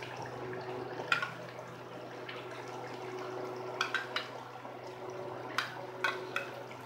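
Chicken, tomato and spice masala bubbling and sizzling in a steel karahi, with several short sharp taps as a dollop of yogurt is spooned into the pan.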